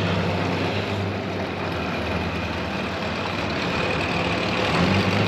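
A car engine running steadily with a low, even hum, getting a little louder near the end.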